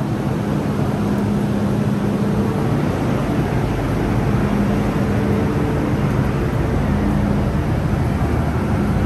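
Interior running noise of an MTR M-Train on the Disneyland Resort Line: a steady dense rumble with a deep humming tone that cuts in and out several times.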